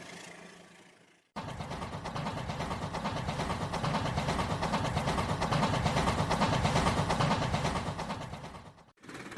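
A train passing, its rumble and rapid wheel clatter starting abruptly about a second in, building up and then fading away. Another steady sound cuts in near the end.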